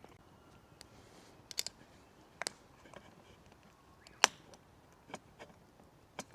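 A few scattered sharp clicks and light knocks, the loudest a single sharp knock about four seconds in.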